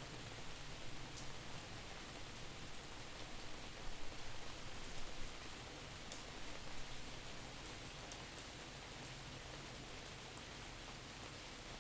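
Steady rain falling, an even hiss with scattered drops ticking, swelling briefly in loudness about four to five seconds in.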